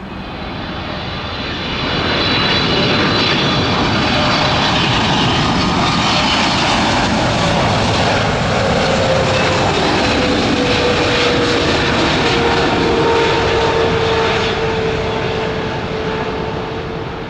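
GE90 turbofan engines of a Boeing 777-200F freighter landing: a loud, steady jet noise that swells over the first couple of seconds, holds, and eases near the end, with a high fan whine early on and a tone that slowly falls in pitch as the aircraft passes.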